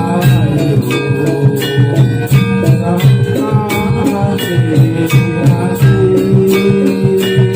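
Jathilan horse-dance accompaniment music: a Javanese percussion ensemble playing a steady, repeating rhythm with melodic metal tones and jingling percussion.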